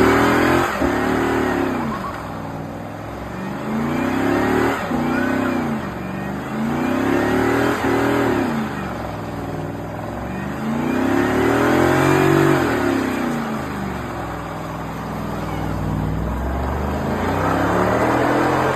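Car engine revved hard again and again, its pitch climbing and dropping back about five times.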